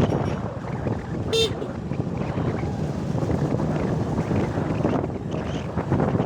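Wind buffeting the microphone over the rumble of a moving vehicle on the road. A single short, high toot sounds about a second and a half in.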